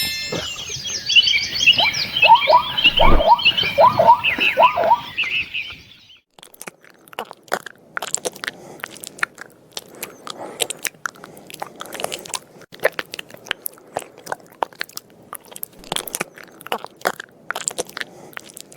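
Chirping bird calls for about six seconds, stopping suddenly. Then an animal chewing: a long run of irregular crunching clicks.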